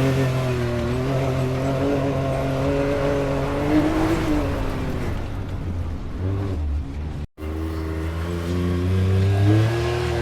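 Off-road vehicle engine running, its pitch easing down about four seconds in and climbing again near the end. The sound drops out for an instant about seven seconds in.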